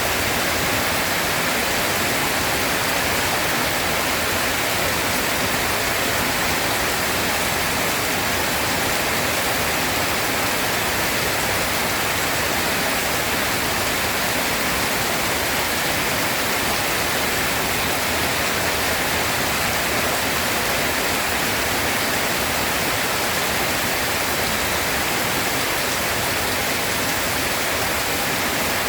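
Rain falling steadily, an even, unbroken hiss with no thunder claps.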